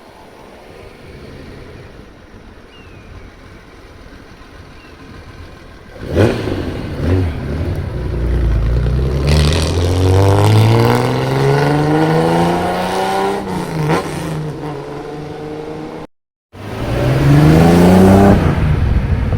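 Loud modified exhaust of a Hakosuka (C10) Nissan Skyline. It is faint and steady at first, then turns loud suddenly about six seconds in. The revs climb steadily under acceleration, then ease off. After a brief break the revs rise and fall again.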